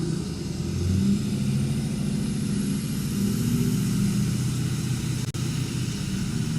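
Truck driving: a steady engine hum under road noise, the engine note stepping up about a second in.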